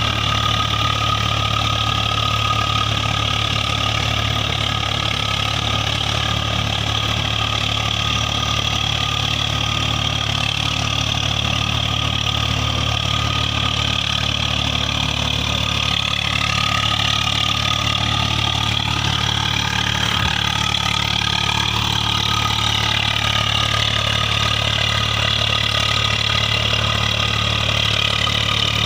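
Tractor's diesel engine running steadily, its pitch wavering for a few seconds past the middle.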